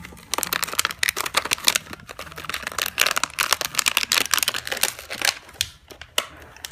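Plastic blister packaging and card backing of a die-cast toy car being torn and pulled open by hand, a dense run of crackling, crinkling and snapping.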